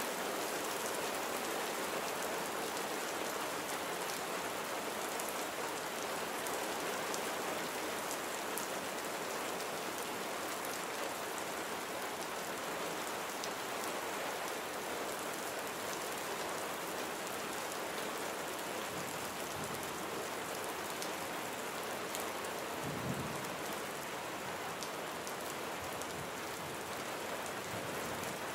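Steady rain falling on a surface, with individual drops ticking close by. A brief low rumble, like distant thunder, rises and fades about four-fifths of the way through.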